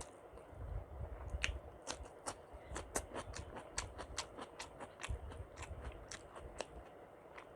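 Close-miked ASMR eating sounds of a person chewing a mouthful of khichuri, with many sharp, wet mouth clicks and smacks at about three or four a second.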